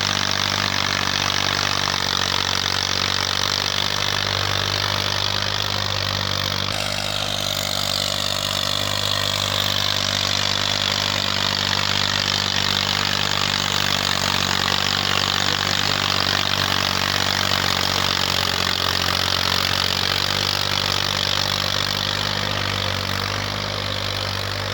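Massey Ferguson 240 tractor's Perkins three-cylinder diesel engine running steadily, with a shift in its higher sound about seven seconds in.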